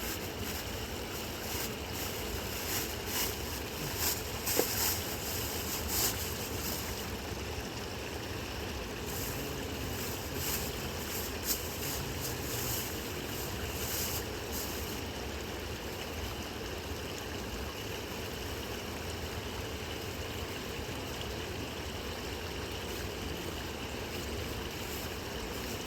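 Steady rush of a flowing river, with scattered light clicks and taps over roughly the first half.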